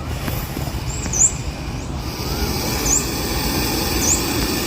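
Cobra hissing: a steady breathy hiss that gets stronger about two seconds in. Small birds chirp in the background.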